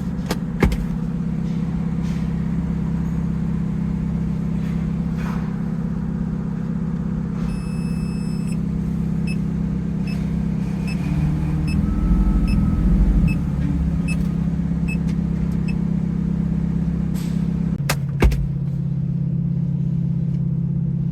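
Ferrari F430's V8 idling steadily, its speed rising and wavering briefly about halfway through. A sharp knock comes about half a second in and another near the end. A short high beep is followed by faint regular ticks, about one every 0.7 seconds.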